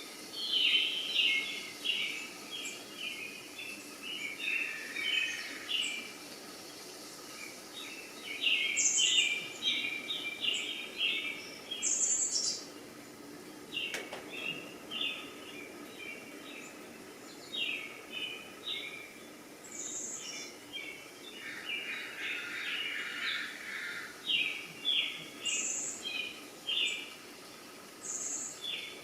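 Birds chirping and singing in runs of quick, repeated notes, with a few short, higher-pitched calls in between, over a faint steady background.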